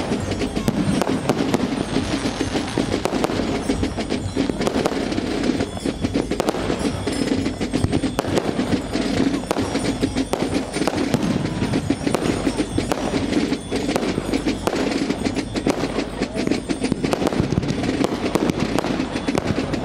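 A fireworks display going off in dense, continuous crackling and popping, with no pauses.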